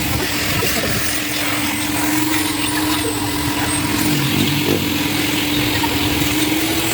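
Coin-operated car-wash vacuum running steadily under a time limit: a constant motor hum with the rushing noise of suction through the hose.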